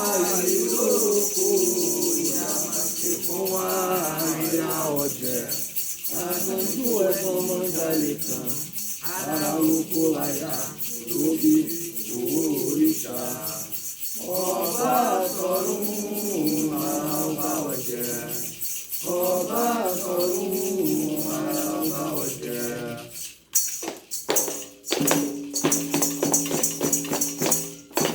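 Voices singing a Candomblé chant over the fast, steady shaking of rattles. About 23 seconds in the singing stops, and the rattles and tambourine-like strikes carry on alone in a steady beat.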